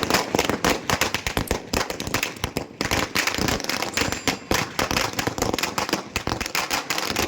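A string of firecrackers going off, a rapid, irregular crackle of many sharp bangs that carries on without a break.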